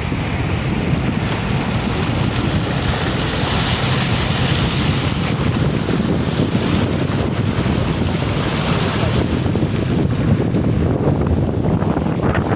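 Loud, steady rushing noise of flowing floodwater, with a deep rumble underneath.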